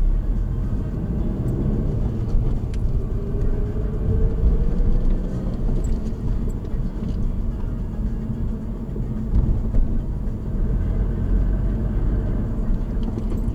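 Car driving, heard from inside the cabin: a steady low rumble of engine and tyres on the road, with a tone that rises over the first few seconds.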